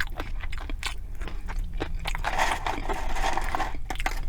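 Close-miked chewing and biting with wet clicks and mouth sounds as a McRib sandwich with onions is eaten. A denser crackly stretch of about a second and a half comes in the middle.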